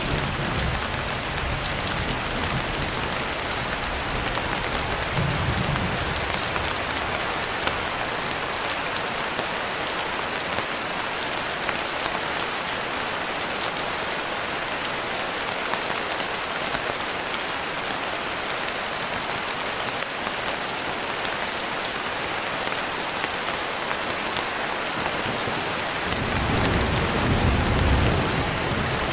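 Steady, even hiss of heavy rain falling, with low rumbles of distant thunder near the start, briefly around five seconds in, and again building near the end.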